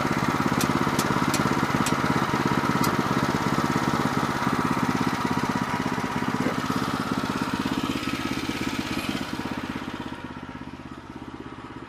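The gas engine of a Woodland Mills HM122 bandsaw mill idling steadily, with a few sharp clicks in the first three seconds. The engine sound grows quieter over the last couple of seconds.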